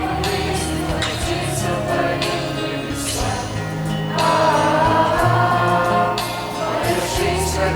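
Teenage church choir singing a Christian worship song in Russian, with instrumental accompaniment. The voices swell louder about four seconds in.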